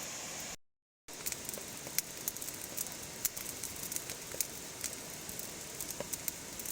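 Rain falling steadily, an even hiss with scattered sharp ticks of drops. The sound cuts out completely for about half a second near the start.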